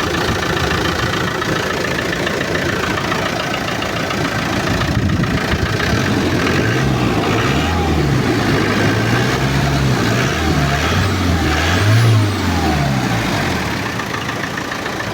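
Land Rover Defender turbo-diesel engine idling, then blipped up and down several times from about six seconds in, loudest near twelve seconds, before settling back toward idle near the end. The owner calls the engine in good condition.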